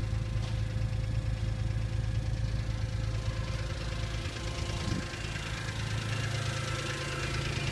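2002 BMW M3's straight-six engine idling steadily from a cold start. The cold-engine ticking it makes is faint and already dying away.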